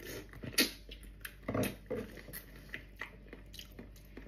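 Close-up eating sounds of a person chewing soft, gelatinous beef trotter meat: irregular wet mouth clicks and lip smacks, a few louder than the rest.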